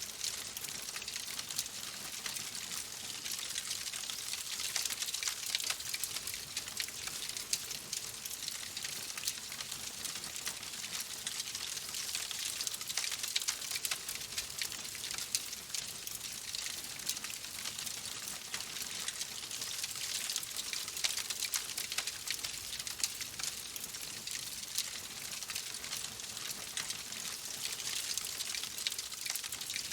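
Wood fire in a fireplace crackling steadily: a dense patter of small crackles and pops over a continuous hiss.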